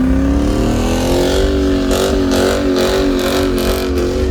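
A car engine revs up over about the first second and is then held at high revs, wavering slightly, as in a burnout at a street meet.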